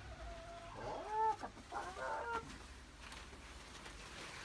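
Domestic hen clucking: two short bursts of drawn-out, slightly rising and falling clucks, about one second and two seconds in, the first the louder.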